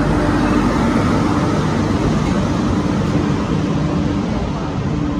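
Passenger train pulling into a station platform: a steady rolling rumble with a low hum running under it.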